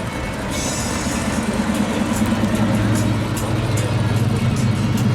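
A car engine running steadily with a low, even drone that grows louder from about a second in.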